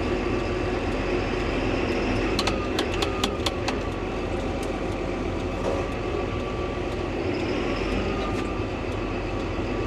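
2005 John Deere's diesel engine idling steadily, with a quick run of sharp clicks about two and a half to three and a half seconds in.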